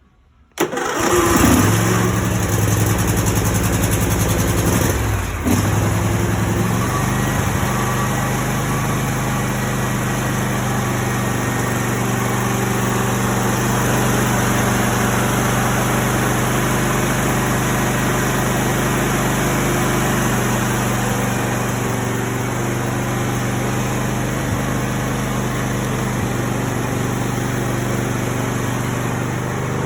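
Engine starting suddenly about half a second in and running louder and less even for about five seconds. It then settles into a steady idle.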